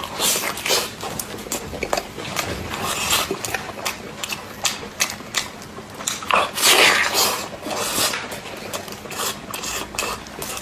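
Close-up mouth sounds of a person biting and chewing a sticky sauce-glazed chicken drumstick: a run of quick wet smacks and clicks, with a louder, longer wet smack about six and a half seconds in.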